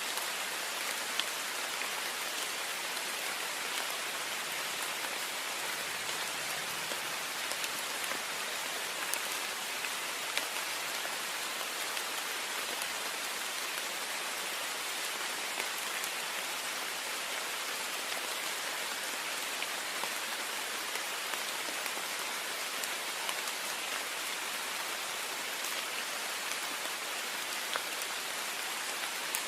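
Heavy rain falling steadily against a window, a dense even hiss with scattered sharper drop ticks.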